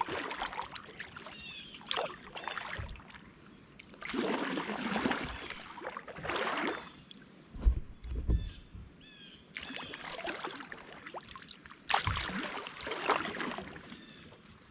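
Kayak paddle strokes through the water, a swish of water about every two seconds, with a low thump a little past the middle.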